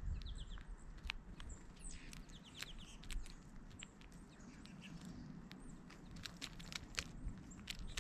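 Small birds chirping in short high notes, mostly in the first few seconds, over frequent sharp clicks and taps.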